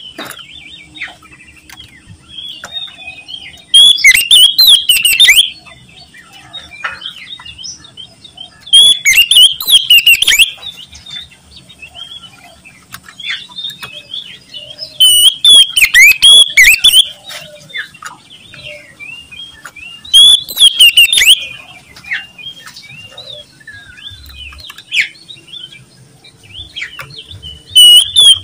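Oriental magpie-robin (kacer) singing loudly and without pause. Loud, full phrases come about every five seconds, with softer chirps and whistles in between.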